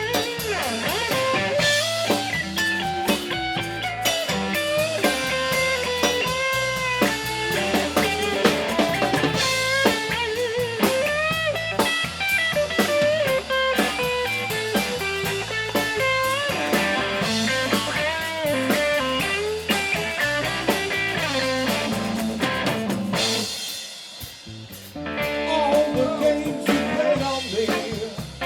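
Blues-rock band playing an instrumental break: a lead guitar with bending notes over bass and a drum kit. The band drops back for about two seconds near the end, then comes in again.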